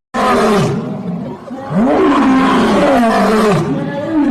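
A large animal's roar, rough and loud, starting suddenly, easing off about a second in, then swelling again for a second and a half.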